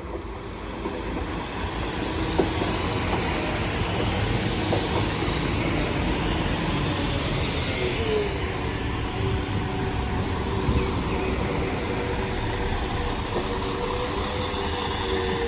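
A passenger train running on the rails, growing louder over the first two seconds and then steady, with a thin whine held over the rumble.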